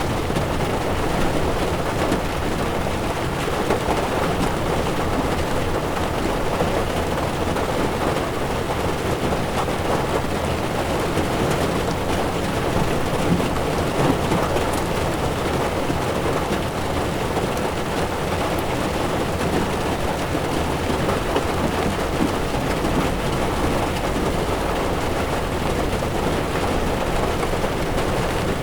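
Heavy rain falling on a moving car's windshield, heard together with the low, steady rumble of tyres on a wet road. The sound stays even throughout, with no single loud event.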